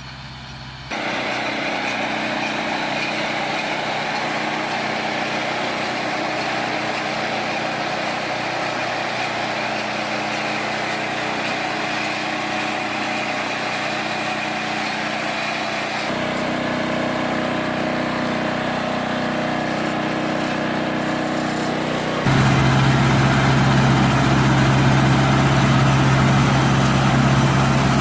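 Tractor engine and hay baler machinery running steadily. The sound changes abruptly about a second in, again about sixteen seconds in, and again about twenty-two seconds in, where it becomes louder with a strong low hum.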